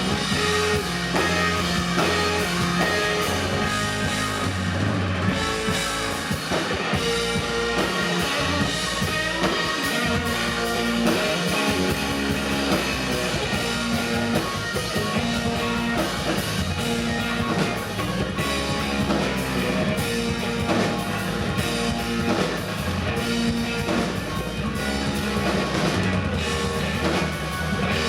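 Rock band playing live: drum kit and guitar in an instrumental passage with no singing, the beat and low notes running steadily.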